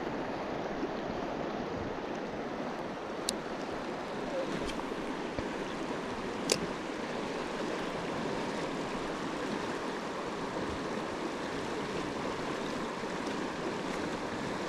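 Steady rush of moving water, with two sharp clicks, about three seconds in and again about six and a half seconds in.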